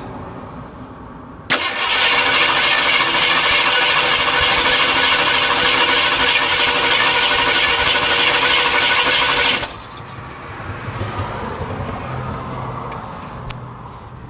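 Ford 302 V8 running with a rough idle, its number 4 exhaust valve barely opening, suspected to be a lifter problem or a flat cam. About a second and a half in, a loud steady whirring noise starts suddenly over the engine and cuts off suddenly about eight seconds later.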